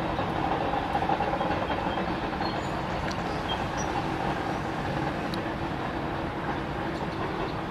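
Freight train rolling past, a steady rumbling noise with a few faint ticks.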